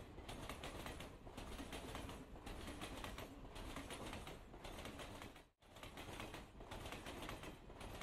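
Faint background hiss with a soft crackle and no distinct event, cutting out for an instant a little past halfway.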